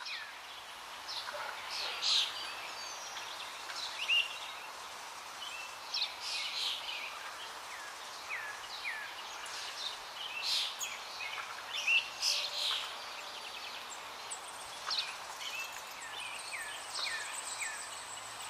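Small birds chirping, with short scattered calls every second or so, some with a quick downward slur, over a steady background hiss.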